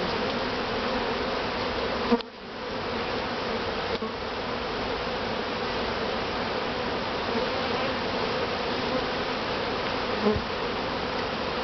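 Honeybees buzzing in a steady, dense drone over an opened top-bar hive and its cut honeycomb. A sharp knock comes about two seconds in, and a smaller one near ten seconds.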